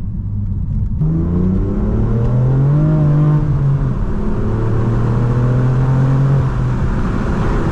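BMW M4 F82's twin-turbo inline-six through an AWE SwitchPath exhaust with its valves open, accelerating under load. The engine note climbs in pitch from about a second in, then holds steady and eases slightly near the end.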